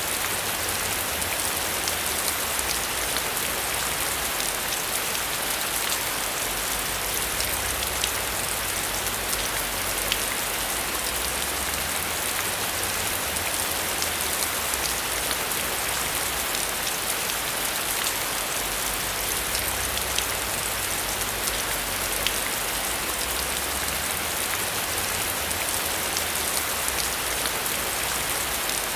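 Heavy rain falling steadily, with many sharp individual drop hits sounding through the constant hiss.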